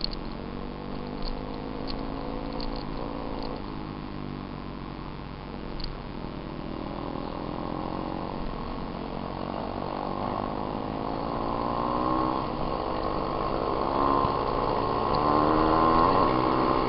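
Small dirt bike engine running, its pitch rising and falling with the throttle, and growing louder toward the end.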